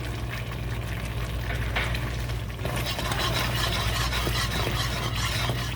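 Whisk stirring broth into a thickening flour-roux sauce in a hot pan, with scraping and a light sizzle; it gets busier about three seconds in. A steady low hum runs underneath.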